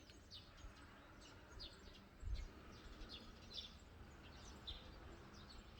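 Small birds chirping faintly in many short, quick downward notes. Under them runs a low rumble, with a brief louder low bump about two seconds in.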